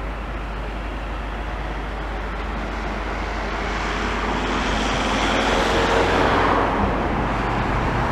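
Road traffic noise with a vehicle passing close by, growing louder to a peak about five to seven seconds in, then easing slightly.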